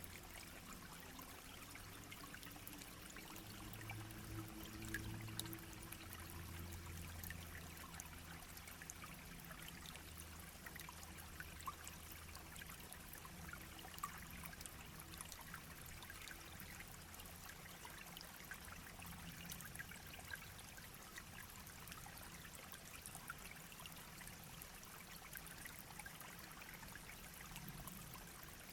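A small shallow brook babbling over stones: a steady, faint trickling rush with many tiny splashes and drips.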